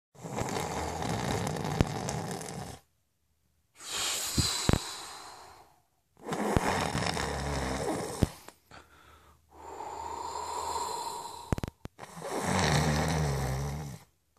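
A man snoring in slow, long breaths: about five snores, each a couple of seconds long, with short pauses between them.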